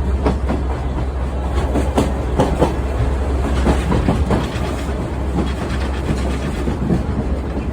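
Sightseeing trolley train running on the rails: a steady low rumble with frequent irregular clicks and knocks from the wheels and cars.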